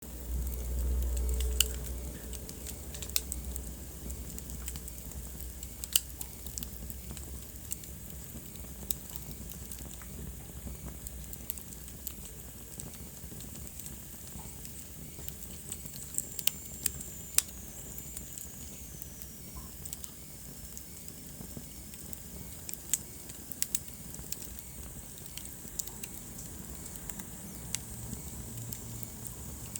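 Wood fire in a fireplace crackling, with irregular sharp pops and snaps over a steady low rumble and hiss. The rumble is louder for the first second or so, and midway a faint high whistle falls slowly in pitch.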